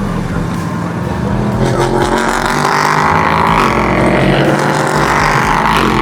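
Race car engines running on the circuit at speed, one growing louder about two seconds in as it comes closer.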